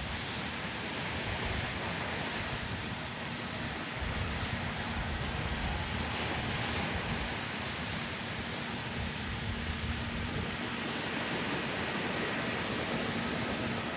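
Surf washing onto a sandy beach in a steady rush, with wind buffeting the microphone.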